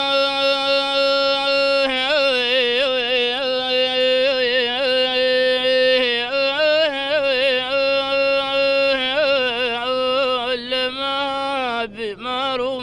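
A single unaccompanied voice singing a long melismatic vocal line of Arabic sung poetry. It holds one note, then runs through quick ornamented turns, holds again, and breaks into short syllables near the end.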